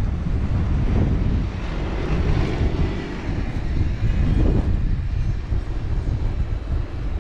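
Strong wind buffeting the microphone with a low, steady rumble, while a vehicle passes through the snow, swelling in the middle and fading.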